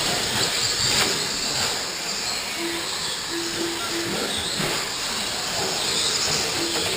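Several radio-controlled short course trucks racing on a dirt track: a steady hissing mix of motor whine and tyre noise, with a few short, even tones around the middle and again near the end.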